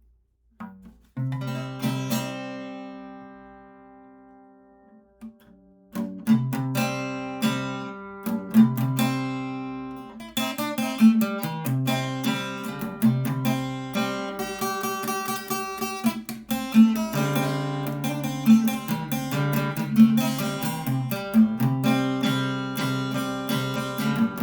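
Acoustic guitar music: a strummed chord about a second in rings and fades away, then from about six seconds on steady strumming and picking of chords.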